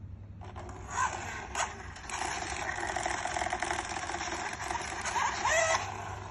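Small electric drive motor and gears of a vintage Daishin 1/16 RC car whirring under radio control, after a couple of clicks about a second in. Near the end the pitch rises briefly before it dies away.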